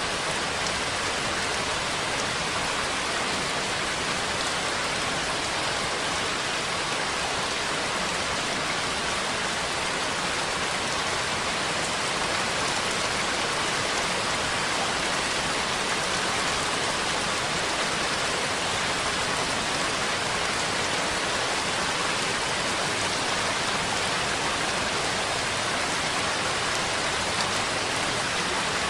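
Steady, even rainfall, a continuous hiss of drops with no thunder or changes in intensity.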